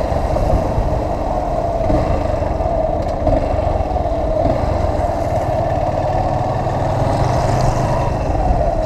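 Motorcycle running steadily on the road, a continuous engine drone that wavers slightly in pitch with no breaks.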